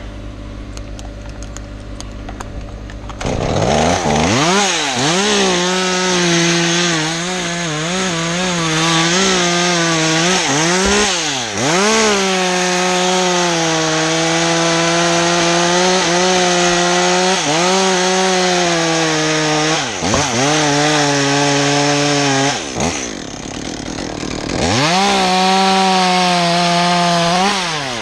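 Chainsaw cutting a notch into a pine trunk: it comes up to full throttle about three seconds in, its note dipping and recovering as the chain bites into the wood. Near the end it falls back to idle for a moment, then revs up and cuts again.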